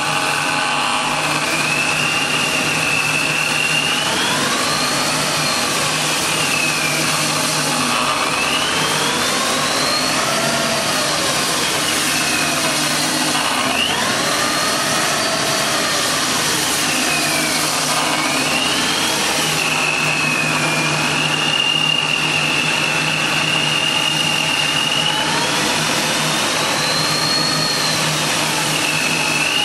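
Supercharged BMW E38 V8 running on its first start after the supercharger was fitted. It idles with a steady high supercharger whine, and the whine rises and falls each time the engine is blipped, about five times.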